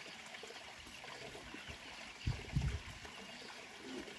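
Steady running water, like a small stream or trickle, with a few low thumps a little over two seconds in.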